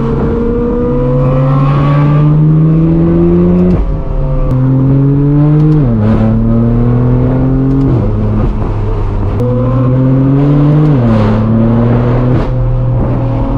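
Straight-piped BMW M4 F82's twin-turbo inline-six exhaust, loud and droning under light acceleration: the pitch climbs slowly in each gear and drops sharply at four quick dual-clutch upshifts.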